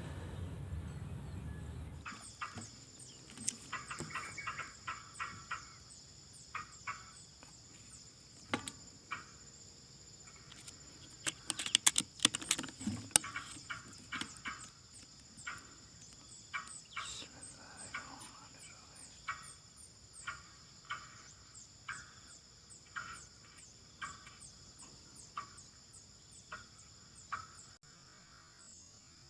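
Forest ambience: a steady high insect drone, with many short bird chirps and ticks repeating irregularly over it, louder and denser about twelve seconds in.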